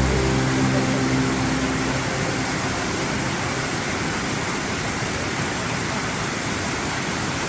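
Steady rush of a waterfall, an even roar of falling water; closing music fades out over the first couple of seconds.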